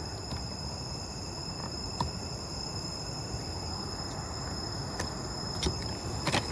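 Night ambience of insects such as crickets keeping up a steady high-pitched trill over a low background hiss, with a few faint soft clicks.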